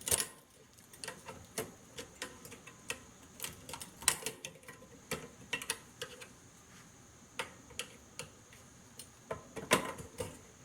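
Irregular sharp clicks and clacks as a microwave magnetron's strong ferrite ring magnets snap onto and are pulled off a steel screwdriver. The loudest clacks come about four seconds in and near the end.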